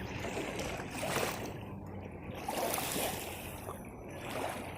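Shallow lake water splashing and lapping, with a few soft surges.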